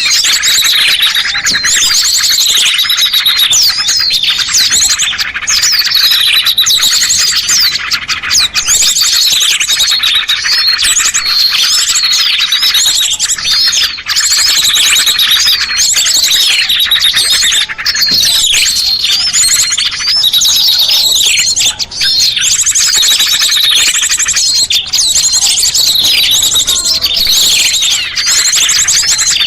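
A dense chorus of many small songbirds chirping, twittering and trilling all at once, with no break: a bird-lure recording for attracting small birds.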